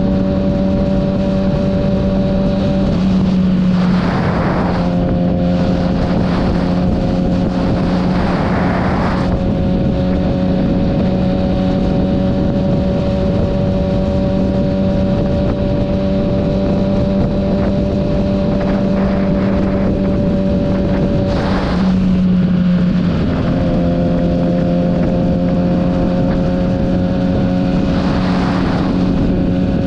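Kawasaki ZX-6R inline-four sportbike engine running at a steady cruise, its pitch dipping slightly twice as the throttle eases. Short rushes of wind noise on the helmet microphone come and go over it.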